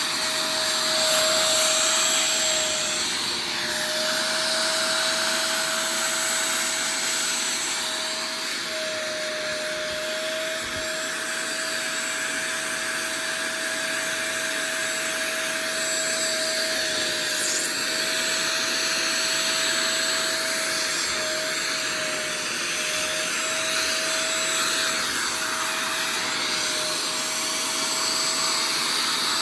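A carpet-cleaning machine's suction motor running continuously: a steady whine that wavers slightly in pitch over a constant rushing hiss.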